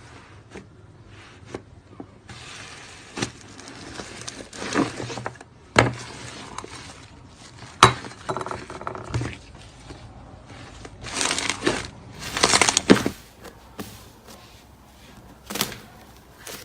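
Slime being pressed, stretched and poked by hand: irregular crackles and sharp pops, with a few longer crackling spells.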